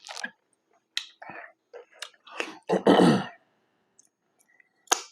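Close-miked chewing of a sandwich, with wet mouth clicks and smacks. About three seconds in comes a short, louder voiced throat sound, like a throat-clear or hum.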